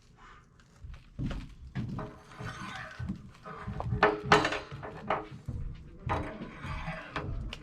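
Irregular clicks, knocks and clatter of tools and metal parts being handled while new replacement parts are fitted back onto an electric water heater.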